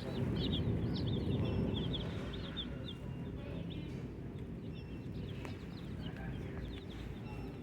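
A brooder full of baby chicks peeping: many short, high chirps overlapping, several a second, busiest in the first few seconds, over a steady low hum.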